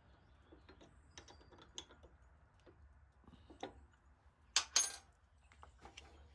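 Small metal clicks and knocks of a drill bit being handled and fitted into a drill chuck, with two sharper clacks about four and a half seconds in.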